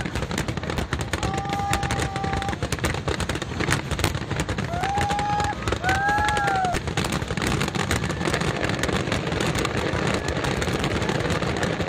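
Fireworks finale barrage: a dense, rapid run of bangs and crackling from many shells bursting in quick succession.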